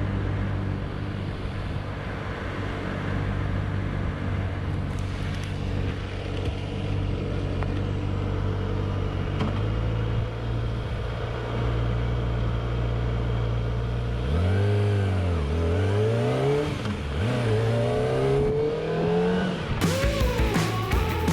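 Kawasaki ZX-25R's 250 cc inline-four engine idling steadily, then revved up and down several times in rising and falling sweeps from about 14 s in. Music with a beat comes in near the end.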